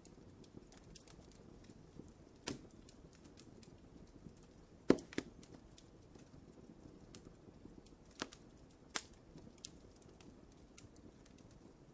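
Wood fire in a fireplace crackling: a soft steady hiss with scattered small snaps and a few louder pops, the loudest about five seconds in.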